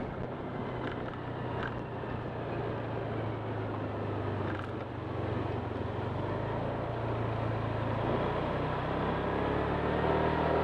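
Honda Click 125 scooter's single-cylinder engine running steadily under way, with a rushing haze of wind and road noise; the engine note shifts about eight seconds in.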